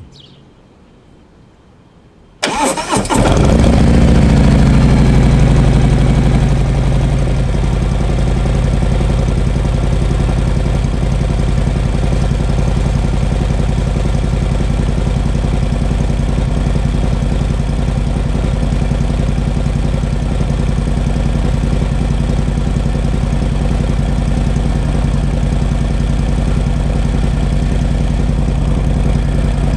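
Harley-Davidson Milwaukee-Eight 114 V-twin in Stage 1 tune, breathing through a Bassani Road Rage 2-into-1 exhaust, starts about two and a half seconds in. It catches with a brief fast idle, then settles into a steady idle.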